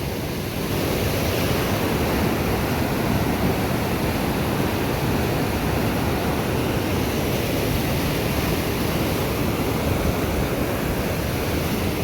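Steady rush of a fast mountain river, heard while crossing a small bridge over it; the noise swells slightly about a second in and then holds even.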